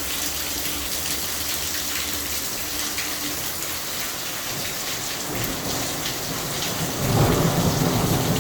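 Heavy rain falling steadily in a thunderstorm, with a low rumble of thunder building about seven seconds in.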